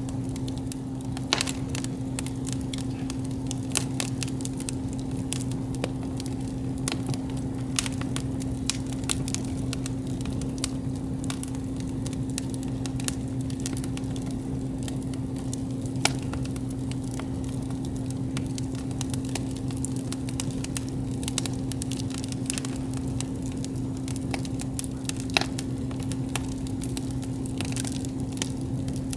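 Wood campfire crackling steadily with scattered sharp pops, a few louder ones about a second in, around the middle and near the end, over a steady low hum.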